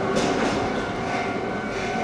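Kotoden Shido Line train running on the track and pulling away, its rumble and wheel noise slowly fading, with a few wheel knocks and a faint steady high tone over it.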